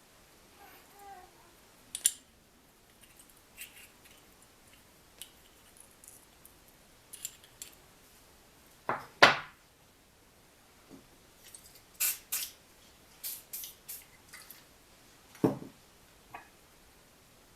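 Hand tools and small metal engine parts being handled, clinking and tapping in scattered short clicks, with two louder knocks about nine seconds in and about fifteen seconds in.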